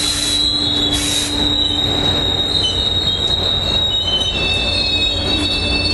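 Passenger train on the rails, its wheels squealing in several thin, steady high tones over a continuous rumble.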